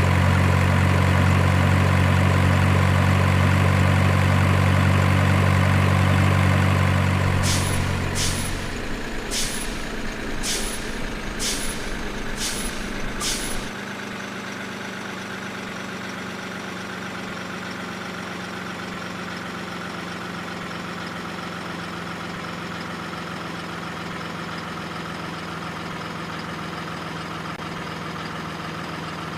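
Diesel truck engine sound running steadily with a heavy low hum, dropping to a quieter idle about eight seconds in. Seven short air-brake hisses follow, roughly a second apart, before the engine sound settles.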